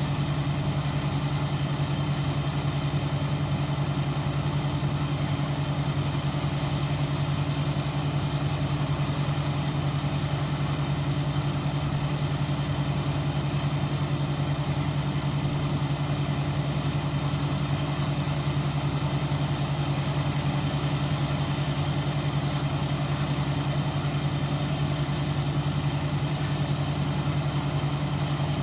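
ISEKI 325 rice harvester's engine and machinery running steadily at work, a constant low hum with an even mechanical noise over it and no change in speed.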